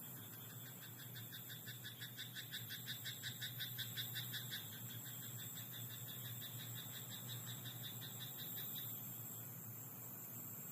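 Frog croaking in a rice paddy: a fast run of pulsed croaks, about eight a second, that grows louder and then stops about five seconds in, over a faint steady high-pitched background.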